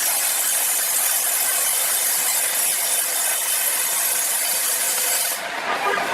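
A saw cutting steadily through a large log of timber, a dense high hiss. About five seconds in, the highest part of the hiss drops away sharply.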